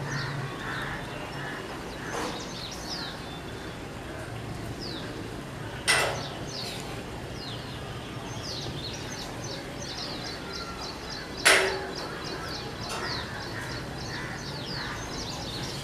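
Birds chirping: many short, high chirps that each fall in pitch, coming thick and fast in the second half. Two loud, sudden sounds stand out, about six seconds and eleven and a half seconds in.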